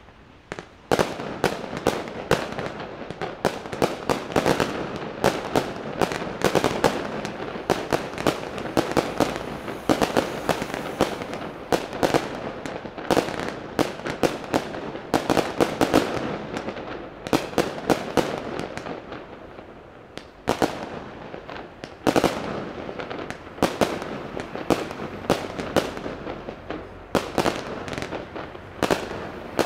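Fireworks display: a rapid, dense barrage of shell bursts and crackling, dozens of sharp bangs close together, easing briefly about two-thirds of the way through before picking up again.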